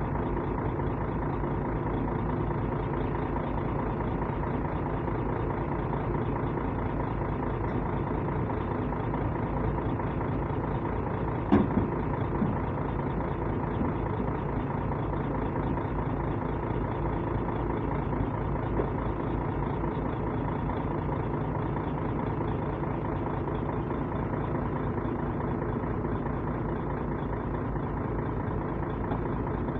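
Hitachi Zaxis 220 excavator's diesel engine running steadily. A single sharp knock comes about 11 seconds in, with a few lighter knocks after it.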